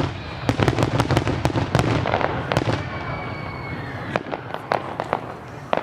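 Fireworks going off: a rapid run of sharp pops and crackles, with a faint, slowly falling whistle in the middle and more scattered bangs near the end.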